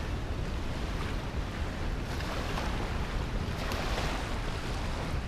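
Wind buffeting the microphone with a steady low rumble, over the wash of Lake Huron waves on the shore.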